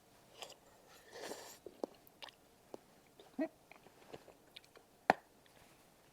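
Close-up mouth sounds of someone chewing tteokbokki, with soft wet smacks and small clicks. There is a breath-like rush about a second in, and one sharp click about five seconds in.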